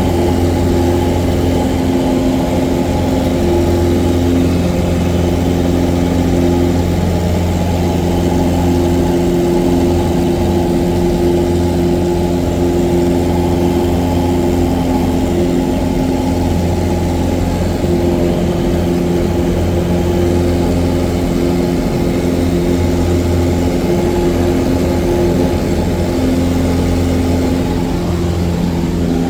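Cessna 177 Cardinal's piston engine and propeller running steadily in flight, a loud even drone with a strong low hum.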